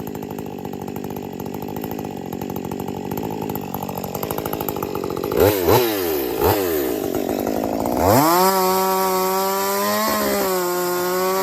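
50 cc class two-stroke chainsaw running at low speed, blipped three times about five to six and a half seconds in, then brought up to high revs and held steady.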